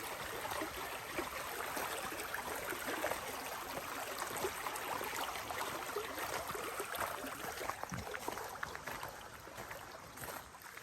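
Rushing water of a jungle stream: a steady hiss of flowing water that eases a little near the end.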